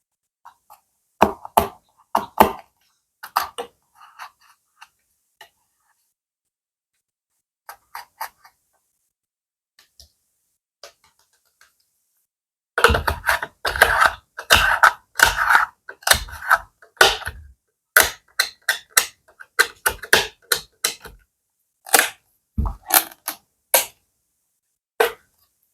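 Plastic bag crinkled and rustled by hand, close up. A few sparse crackles come first, then dense, continuous crinkling from about halfway through.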